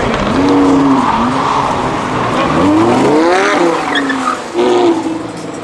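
A car engine revving hard, its pitch rising and falling several times, over tyres squealing and skidding as the car drifts or spins donuts.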